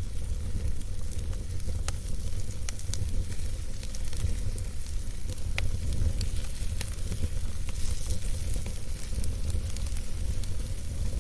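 Campfire burning, with scattered sharp crackles and pops over a steady hiss and a low rumble underneath.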